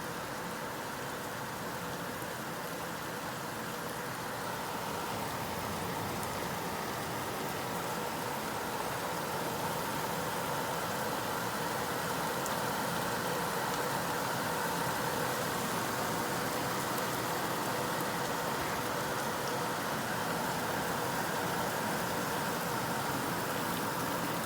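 Steady rain falling during a thunderstorm, a constant hiss that grows slightly louder over the first half, with a faint steady hum underneath.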